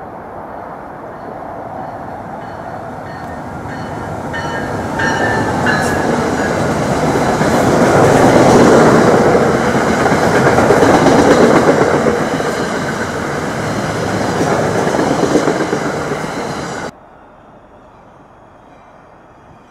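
Electric passenger train approaching and passing close by, its wheels rumbling on the rails, with faint high squealing tones a few seconds in. The noise builds to its loudest about halfway through, then cuts off abruptly near the end, leaving only a low, steady background.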